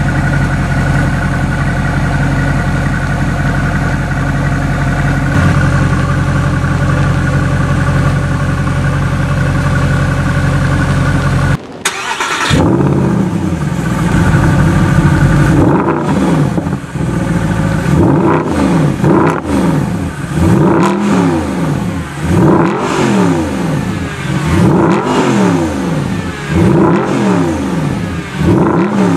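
Mercedes-Benz SLS AMG's 6.2-litre naturally aspirated V8 idling steadily, then, about twelve seconds in, revved over and over in quick blips, the pitch climbing and falling back roughly every second and a half.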